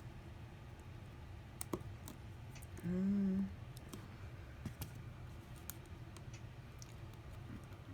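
Faint, scattered small clicks and taps from handling iPhone SE parts and repair tools during reassembly, with a short low hum about three seconds in.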